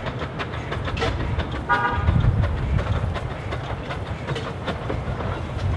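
Narrow-gauge train running, with a steady low rumble and frequent sharp wheel clicks over the rails. A short toot sounds about two seconds in.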